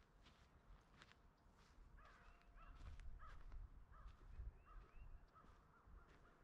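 Faint birds calling in short, repeated, arching notes, busiest in the middle of the stretch, over a low rumble and a few soft clicks.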